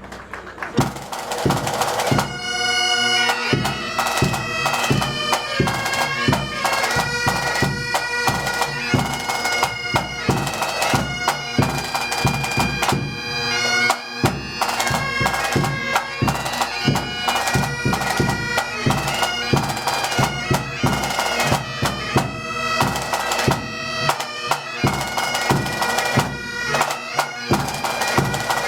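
Pipe band playing: drums beating, with the bagpipes striking in about two seconds in and carrying a tune over the drums.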